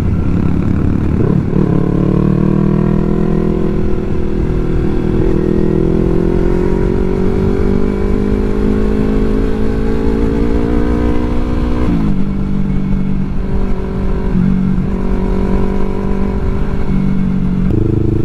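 Yamaha R3's parallel-twin engine while riding: the engine note climbs steadily under throttle for about ten seconds, then drops sharply and runs at a steadier pitch, picking up again near the end.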